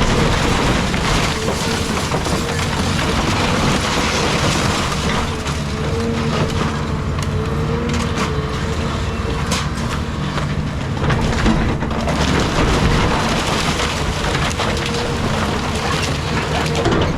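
Caterpillar 323 excavator running with a steady engine and hydraulic tone while wood crunches, cracks and splinters continuously as the house is torn apart.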